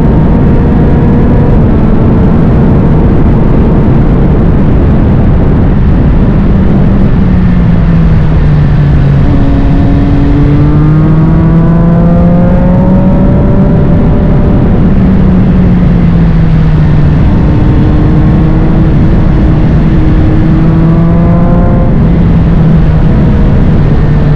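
Triumph Street Triple 765 RS inline-three engine through a Spark full exhaust, its pitch climbing and falling several times as the bike accelerates and eases off, over heavy wind rush.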